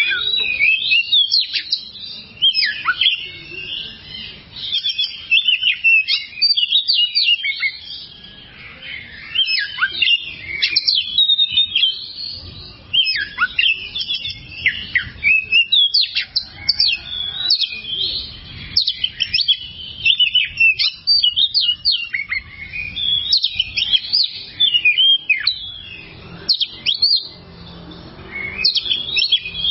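Oriental magpie-robin (kacer) singing a long, varied song of rapid chirps, whistles and sharp rising and falling notes, in phrases broken by short pauses.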